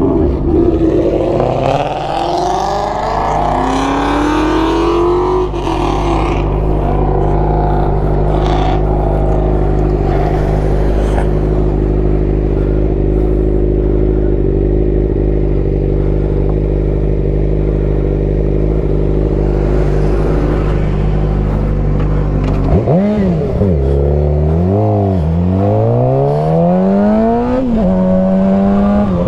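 Motor vehicle engine revving. It rises in pitch in the first few seconds, then runs at a steady speed, and from about 23 seconds in it is revved up and down several times before settling at a higher steady pitch near the end.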